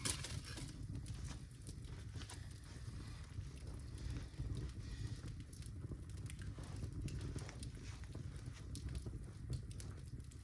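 Birch logs burning in a fireplace, crackling and popping irregularly over a steady low rumble, with a sharp pop at the start.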